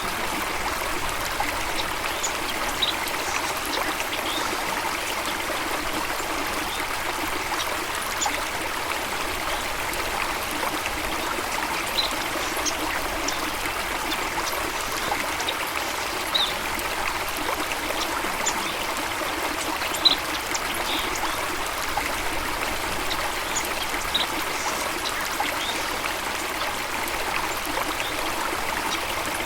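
Steady running, trickling water of a stream, with brief high-pitched chirps now and then.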